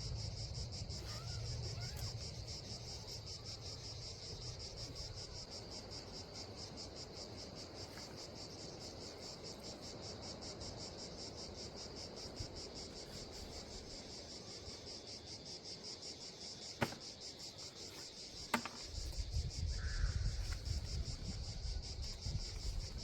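Insects singing steadily in a continuous high, fast-pulsing chirr. Two sharp clicks come near the end, followed by a low rumbling noise.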